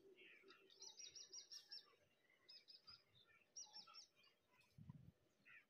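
Faint birdsong: a small bird repeating quick high chirps in short runs, the longest about a second in and shorter ones after. A soft low thump near the end.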